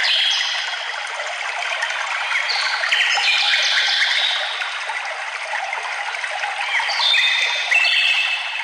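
Songbirds singing short phrases of quick, high notes in three bouts: at the start, around three to four seconds in, and near the end. Under them runs a steady rush of flowing water, like a forest stream.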